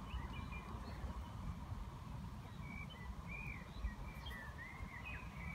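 Faint outdoor birdsong: a string of short, high chirps repeating irregularly, over a low rumble.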